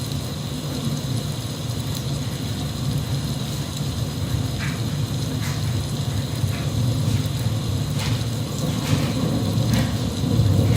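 Steady rain with a low rumble under it and a scattering of sharper drops, growing slightly louder near the end.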